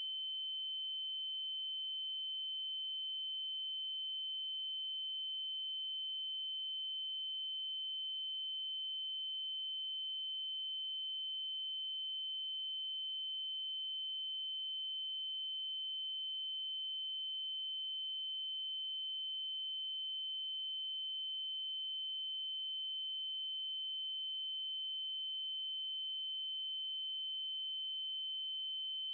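Synthesized 3072 Hz triangle-wave test tone: one high, steady pitch held without change.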